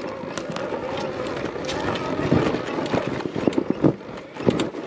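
Arctic Leopard XE Pro electric dirt bike riding over rough trail: a faint steady electric motor whine under tyre and wind noise, with irregular knocks and clatter as the bike rolls over rocks and roots.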